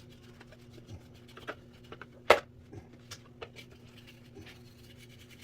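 Handling and wiping plastic box fan parts during cleaning: scattered light rubbing and small clicks, with one sharp click a little over two seconds in.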